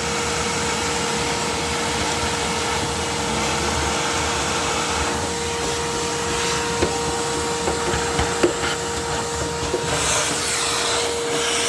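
Wet/dry shop vacuum running steadily with a constant motor whine, sucking up the dirt and coil cleaner left under a refrigerator after its condenser coils were cleaned. A few short knocks come about seven to eight and a half seconds in.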